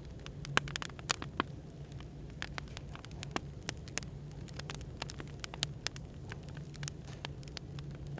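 Wood fire crackling, with irregular sharp pops and snaps several times a second, over a steady low hum of background noise.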